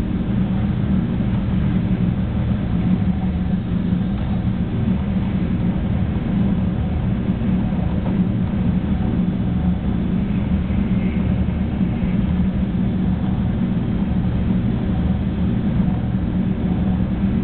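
Steady low rumble of a Shinkansen 300 series train running at speed, heard from inside the passenger car.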